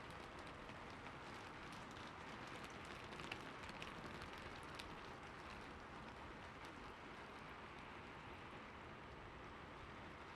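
Steady rain falling: a soft, even hiss with scattered individual drop ticks, which are thickest in the first half.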